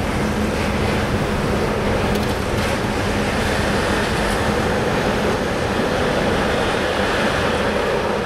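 Intermodal container freight train rolling past, a steady rumble of wagon wheels on the rails with a low hum underneath.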